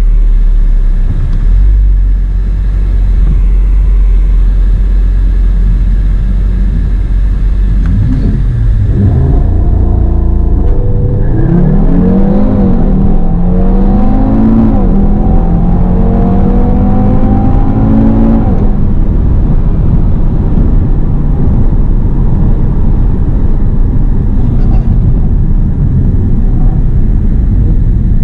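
Audi TT's engine heard from inside the cabin on a drag strip run: after a low, steady rumble it revs up, then accelerates hard through the gears for about eight seconds, the pitch climbing and dropping back at two upshifts. It lifts off about two-thirds of the way in and settles back to a low rumble.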